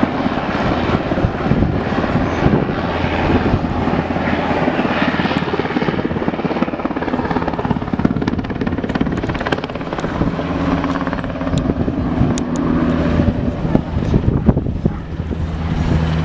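An aircraft running steadily overhead, a loud, constant engine noise with a low hum whose pitch shifts slightly about ten seconds in.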